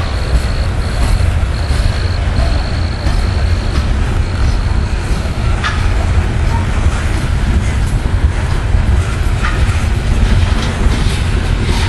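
Loaded coal hopper cars of a CSX freight train rolling past: a steady low rumble of steel wheels on the rails, broken by a few sharp clicks.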